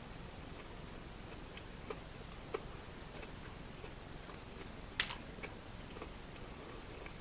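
Quiet chewing and biting of a red velvet cake doughnut, with a few soft mouth clicks; the sharpest click comes about five seconds in.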